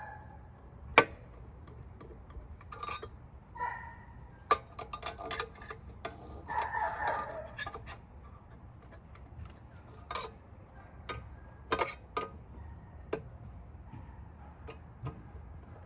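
Irregular metallic clicks and clinks of hand tools and screws as the exhaust bracket is fitted back onto a quad's exhaust, with short runs of quick ticking between single sharp knocks.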